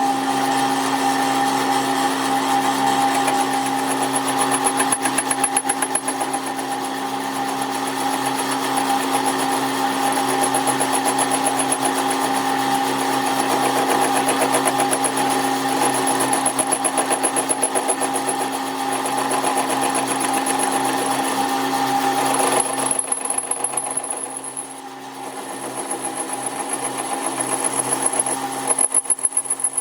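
A workshop machine running steadily, a constant hum with a fast, regular pulsing. About three-quarters of the way through it drops off and changes, then builds up again near the end.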